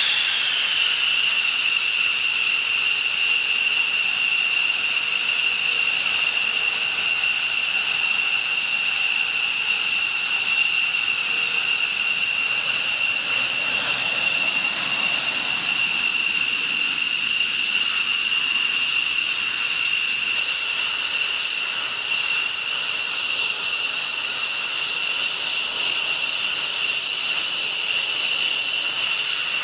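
Jet engine running with a steady high-pitched two-tone whine over a rushing hiss. The whine settles to a constant pitch within the first second.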